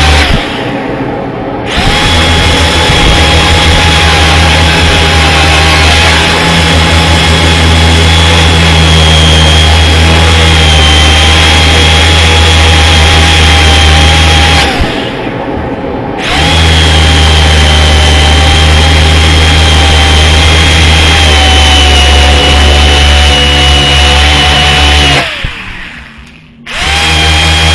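Electric grinder running steadily while stripping paint from a metal sign, its sound dropping away briefly twice and then winding down with a falling pitch near the end before starting up again.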